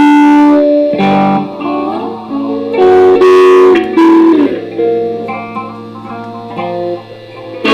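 Neck-through electric guitar played clean, a slow phrase of plucked notes and double stops, each struck sharply and left to ring.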